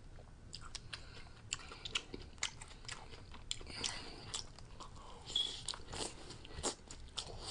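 A man chewing a mouthful of lettuce-and-chicken salad bowl close to the microphone: soft, irregular crunches and wet mouth clicks.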